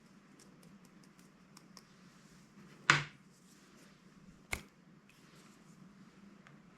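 Hands handling slime and its plastic containers: faint scattered crackles and clicks, a loud knock about three seconds in and a sharp tap about a second and a half later.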